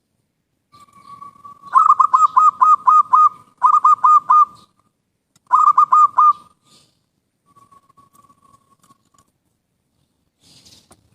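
Zebra dove (perkutut) cooing: a soft drawn-out coo leads into three bursts of quick rolling coos, the first longest, then a faint trailing coo.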